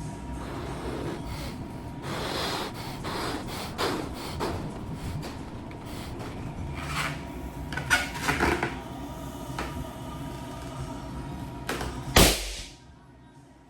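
Rubber balloon being handled and rubbed, with squeaky, rustling rubbing, then bursting in one loud sharp pop about twelve seconds in.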